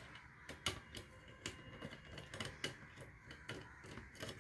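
Faint, irregular light clicks and taps, spaced a fraction of a second to about a second apart, as small parts and tools are handled on a workbench.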